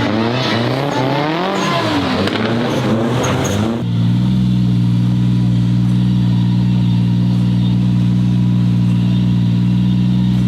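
Nissan Silvia S15's swapped Toyota 2JZ inline-six engine revving hard with the pitch rising and falling as it drifts. About four seconds in, the sound switches abruptly to a steady, held engine note.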